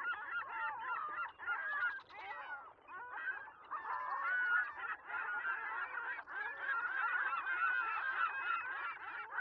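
A large flock of birds calling densely, many short calls overlapping one another without a break, with a brief lull a few seconds in.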